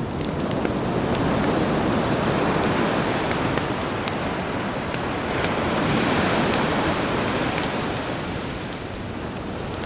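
Sea waves washing onto a shore, swelling and ebbing twice, with the scattered crackle and pops of a campfire.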